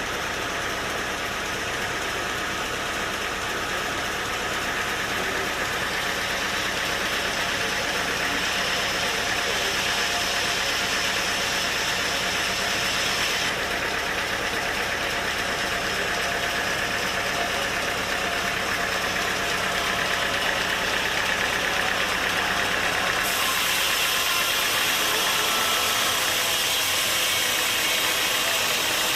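Sawmill machinery running steadily, a dense continuous mechanical noise with an engine-like hum. The character of the noise changes abruptly twice, about 13 seconds and 23 seconds in.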